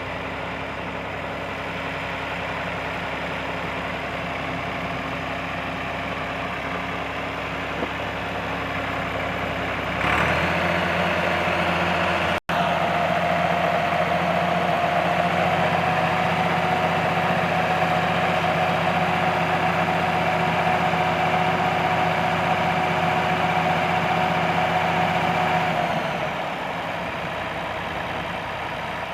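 Massey Ferguson tractor diesel engine idling steadily, then revved sharply about a third of the way in and held at a higher, louder speed before settling back to idle near the end.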